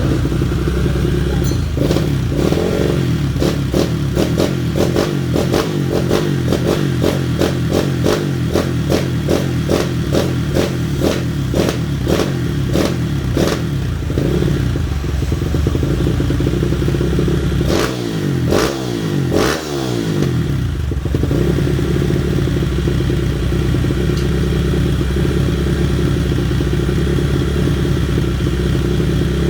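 Bored-up Kawasaki KLX single-cylinder engine running through a Norifumi Rocket 4 aftermarket exhaust. For the first dozen seconds it runs with sharp regular pulses about three a second, revs up and down a few times around the middle, then settles back to a steady idle.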